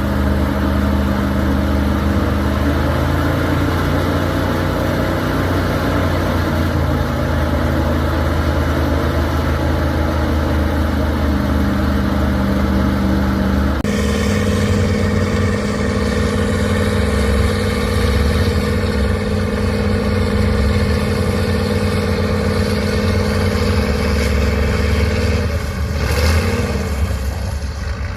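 Heavy 6×6 truck-trial truck's engine running and revving under load, its pitch rising and falling. The engine sound changes abruptly about halfway through and again near the end.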